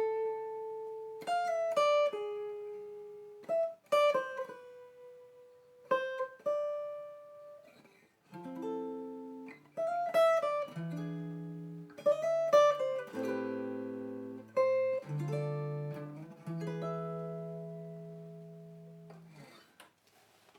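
Guitar playing plucked single notes and chords, each left to ring and die away; the last chord fades out near the end.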